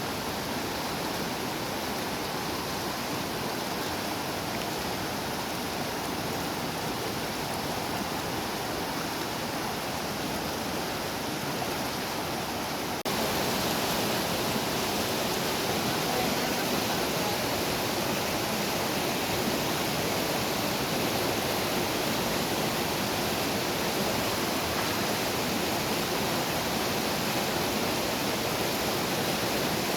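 Steady rush of a small river's flowing water, which suddenly gets louder a little before halfway through.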